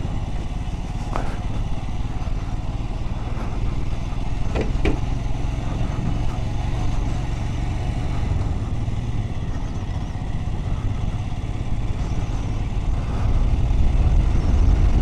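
Motorcycle engine running while under way, a steady low rumble that gets louder near the end.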